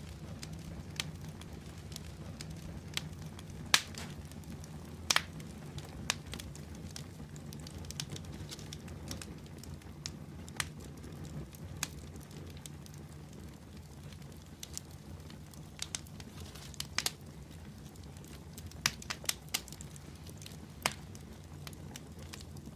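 Wood fire burning in a fireplace: a steady low rumble of the flames with sharp, irregular crackles and pops every second or two.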